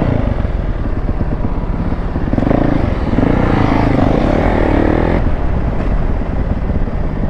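Motorcycle engine running and revving, its pitch rising about three and a half seconds in and dropping off suddenly just after five seconds.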